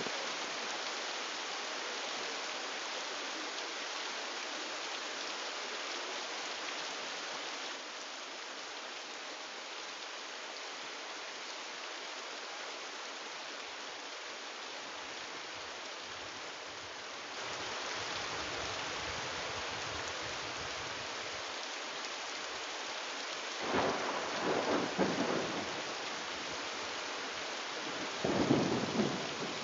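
Steady heavy rain falling, with two rolls of thunder a few seconds apart near the end.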